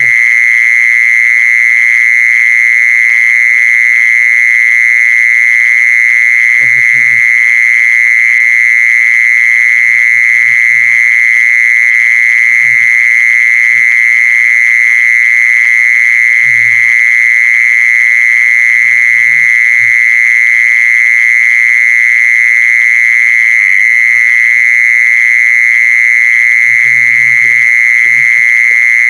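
Jee-son insect calling: a loud, unbroken, high steady trill, with no change in pitch or level.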